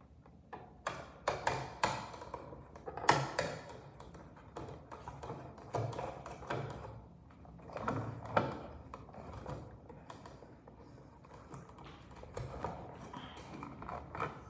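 Irregular series of knocks, taps and clicks, as of hard parts or tools being handled, loudest about three seconds in.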